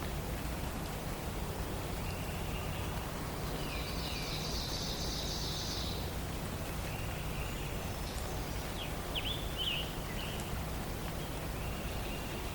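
Songbirds singing over a steady low background noise. There is a high trill about four seconds in, short whistled notes, and a quick run of sharp rising and falling chirps near ten seconds.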